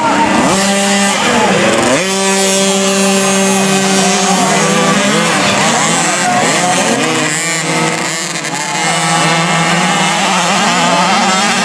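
Several 50cc two-stroke motocross bikes revving hard, their engine notes overlapping and repeatedly climbing and dropping in pitch as the riders throttle and shift; one engine holds a steady note for a few seconds early on before the pitches start swooping again.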